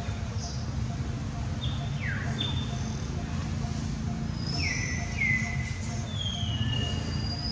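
Wild birds calling in short whistled notes, several sliding down in pitch, over a steady low rumble and a faint, evenly spaced ticking pulse.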